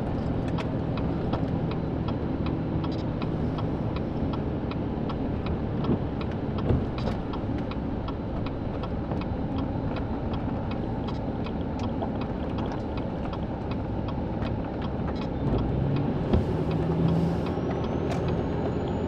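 Car cabin noise while driving: a steady rumble of road and engine noise, with a regular ticking about twice a second.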